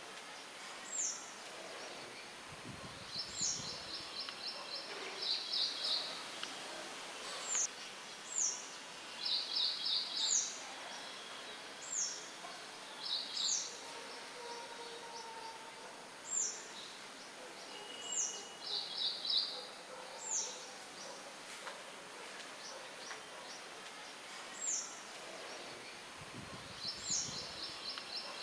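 Songbirds chirping over a steady hiss of wind. Short, high, down-slurred notes and quick rattling trills recur every second or two.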